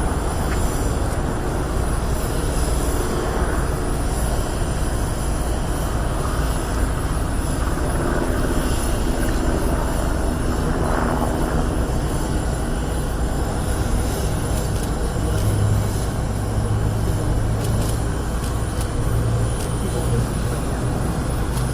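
Airbus A400M's four counter-rotating Europrop TP400 turboprop engines running loud and steady, a deep drone.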